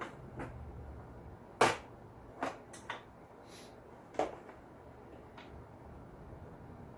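Scattered sharp clicks and knocks of small metal compression-tester fittings being handled and tried in a small engine's spark plug hole, the loudest about a second and a half in.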